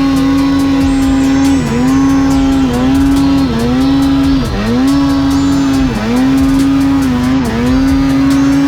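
Snowmobile engine running hard at high revs, the throttle easing off and coming straight back about six times.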